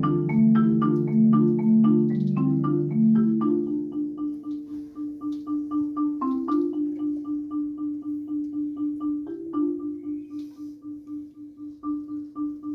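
Percussion ensemble playing on marimbas. Several low parts sound together for about the first four seconds and then drop out, leaving one repeated note struck about three times a second that slowly gets softer.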